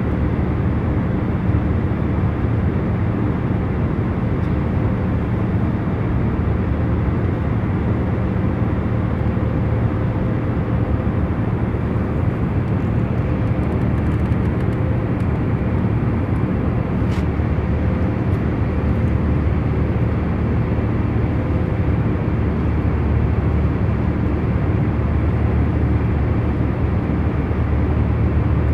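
Airliner cabin noise in cruising flight: a steady low rush of engine and airflow with faint steady hum tones, and a faint click about seventeen seconds in.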